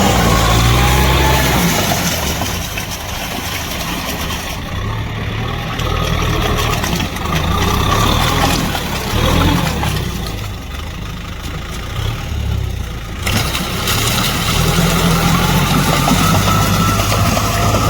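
Diesel engine of a Kubota M6040SU tractor running under load while tilling with a rotavator. The engine note rises and falls several times, with a rising whine near the end.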